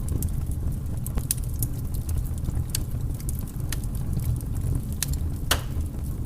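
Wood fire crackling in a fireplace: irregular sharp pops and snaps over a steady low rumble, with one louder pop about five and a half seconds in.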